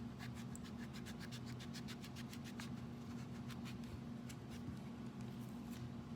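Pumpkin skin being peeled: a quick run of short scraping strokes, about seven a second, slowing near the middle to a few scattered strokes.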